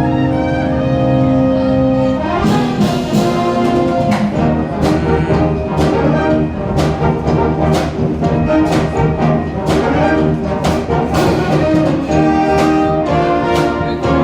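University wind band playing live brass music: a held chord, then about two seconds in a lively passage with a steady percussion beat.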